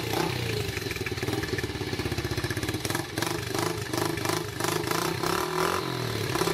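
Yamaha TT-R90 dirt bike's small single-cylinder four-stroke engine running just after a cold start, its speed wavering up and down.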